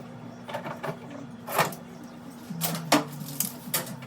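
Irregular clicks and knocks of hands working on a top-load washing machine's parts during a suspension rod repair, the loudest about one and a half seconds and three seconds in, over a steady low hum.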